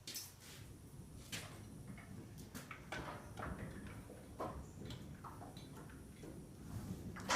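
Faint, irregular clicks and knocks as the split front half of a tractor is scooted along on a floor jack.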